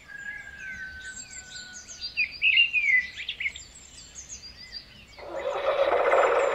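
Birds chirping and calling: many short high chirps and quick whistled glides, loudest about two to three and a half seconds in. From about five seconds in, a steady rushing sound swells in beneath them.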